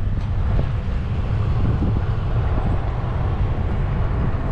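Wind buffeting the microphone of a moving bicycle rider in a strong breeze: a steady low rumble with a rushing hiss above it.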